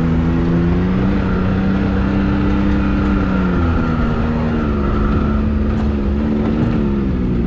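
Can-Am Maverick X3's turbocharged three-cylinder engine running steadily at low revs as the side-by-side drives along a rough trail, its pitch dipping slightly about three and a half seconds in.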